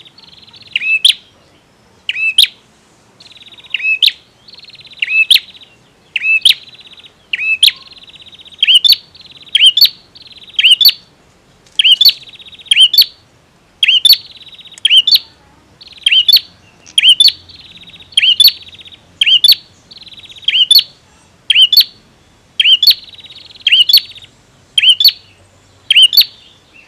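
Male bar-winged prinia (prenjak) singing: loud, sharp, piercing notes repeated about once a second, with a buzzy, rapidly pulsed trill between many of them.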